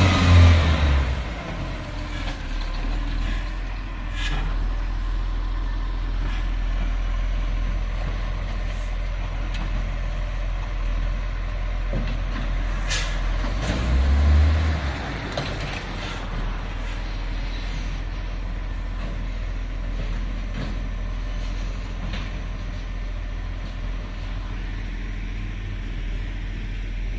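Garbage truck's diesel engine running steadily at low revs. It dies down from a louder run at the start and briefly swells again about halfway through. A few sharp clanks ring out over it.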